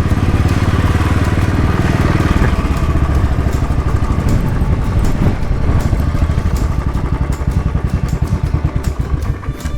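Motorcycle engine running under way, a fast low pulsing of firing strokes, heard from the rider's own bike on the move.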